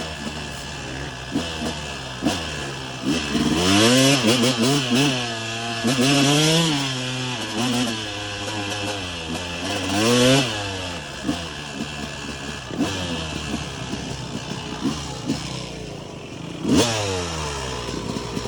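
Dirt bike engine being ridden, revving up and easing off again and again, its pitch climbing and dropping with each burst of throttle.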